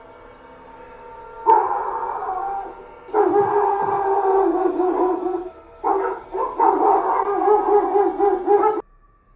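Several dogs howling together in long, wavering calls over faint background music. The howling starts suddenly about a second and a half in, comes in three long stretches, and cuts off abruptly near the end.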